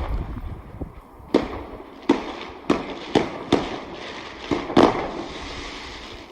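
Fireworks going off: about seven sharp bangs at irregular intervals, the loudest about five seconds in, followed by a crackling hiss that fades.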